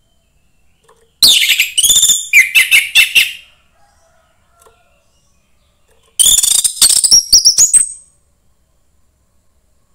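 Young wild orange-headed thrush singing: two loud phrases of rapid, varied whistled notes that slide up and down, each about two seconds long, separated by a pause of about three seconds.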